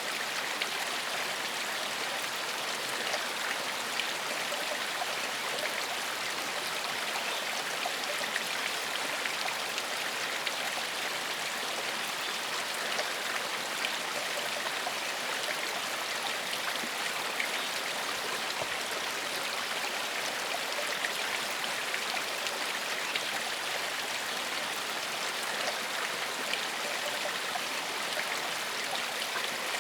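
Gentle forest stream flowing steadily: an even, unbroken rush of running water.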